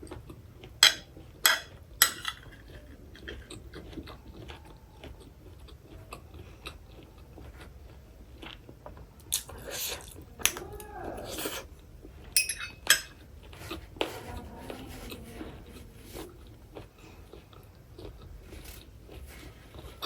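Close-up eating sounds: chewing and biting with crunches, and several sharp clicks and knocks of tableware, the loudest around a second in and again about two-thirds of the way through.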